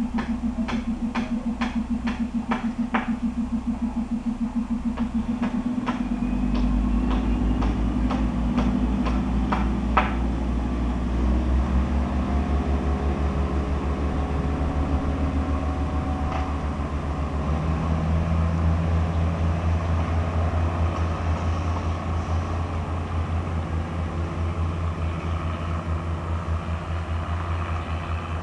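Diesel railcar's engine running with a steady low, pulsing drone that grows stronger about six seconds in as the train moves off along the track. Sharp clicks come in quick succession during the first ten seconds.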